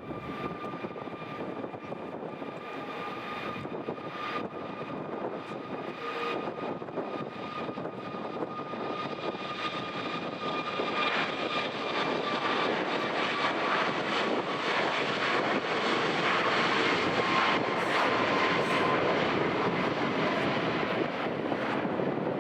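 CFM LEAP-1B turbofan engines of a Boeing 737-8-200 MAX jet airliner passing: a steady high whine that dips slightly in pitch, over a rush of engine noise that grows louder toward the end.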